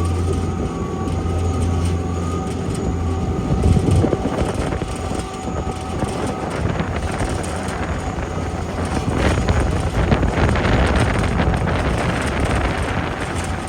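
Airport ramp tug's engine running while driving, a low steady hum, with a thin steady high whine over it. From about nine seconds in a broader rushing noise rises and stays loud.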